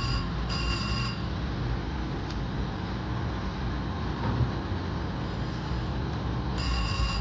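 Slot machine sounding short electronic chime tones, two near the start and another near the end, over the steady low din of a casino floor.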